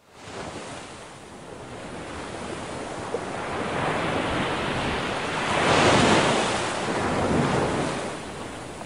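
Ocean waves surging and washing in, with wind, swelling to the loudest wave about six seconds in and another a little after, then easing off.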